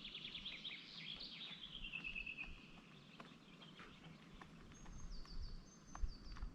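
Faint songbird singing: a run of quick notes that falls steadily in pitch over about two and a half seconds, then two short, high repeated phrases near the end. Light clicks and a couple of low knocks sound in between.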